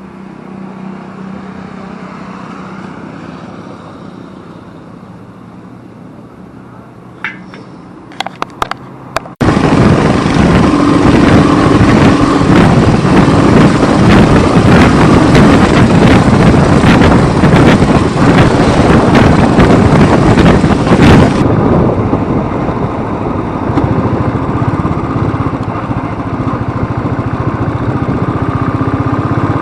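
Motorcycle engine running on the road. A few sharp clicks come about eight seconds in, then loud wind rush on the microphone sets in suddenly and eases somewhat about two-thirds of the way through.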